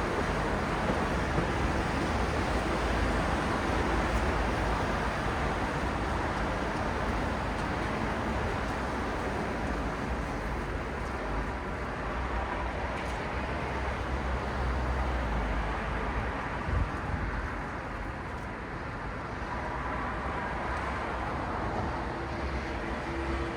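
City road traffic at night: a continuous wash of passing cars and other vehicles, with a steady engine and tyre rumble that swells and eases slowly. There is a brief knock about three-quarters of the way through.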